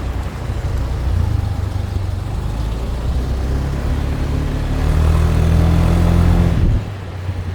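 Motorbike engine running steadily under way, with road and wind noise. It grows louder and higher about five seconds in, then drops away abruptly near the end.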